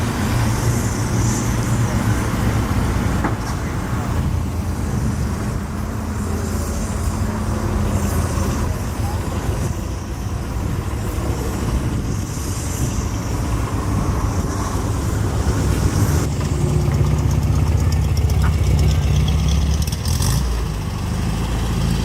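A car engine running steadily, louder and deeper for a few seconds near the end, with people talking in the background.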